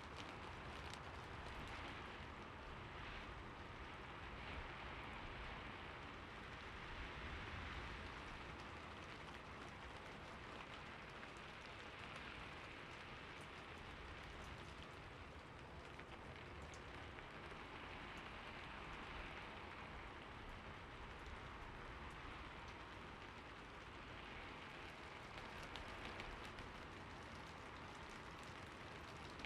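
Steady rain falling on a surface, a continuous hiss with fine scattered drop ticks that swells and eases gently.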